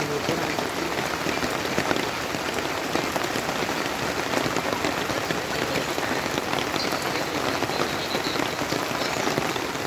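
Steady heavy rain falling, a dense even hiss full of small drop ticks.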